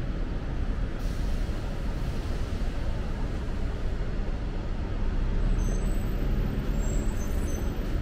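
Electric commuter train running in the station: a steady rumble, with a few faint high squeals in the last few seconds.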